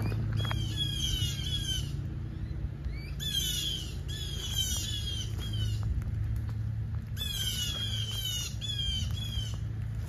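Birds giving harsh alarm calls, four runs of quick, repeated downslurred notes, the mobbing calls birds make at a snake.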